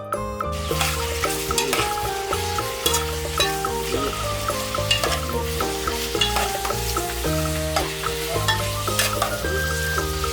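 Food frying, a steady sizzle with scattered crackles that starts about half a second in, over background music with a bass line.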